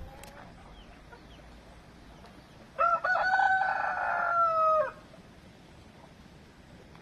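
A rooster crows once, a single call of about two seconds starting about three seconds in, its pitch dropping slightly as it ends.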